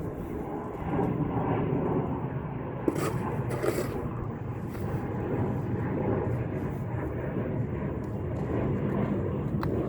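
Steady low rumble of a car driving, with two brief hissing noises about three seconds in.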